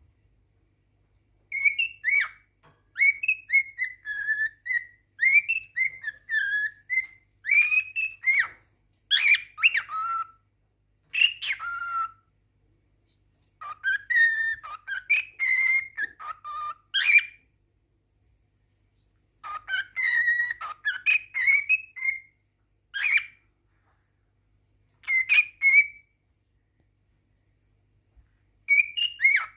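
Male cockatiel singing a courtship song: runs of warbling, gliding whistle notes in phrases several seconds long, with short silent pauses between them.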